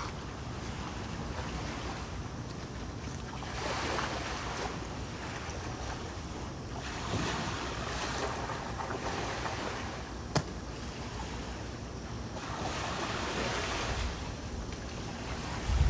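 Ocean waves breaking and washing on the shore, swelling and easing every few seconds, with a single sharp click about ten seconds in.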